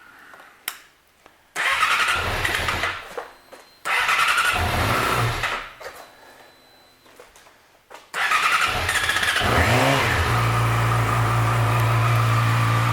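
2010 Yamaha YZF-R6's inline-four engine being started from cold. Two short attempts die out after a couple of seconds each. The third, about eight seconds in, catches, revs briefly and settles into a steady idle. The hesitant start is what the owner calls a little cold-blooded.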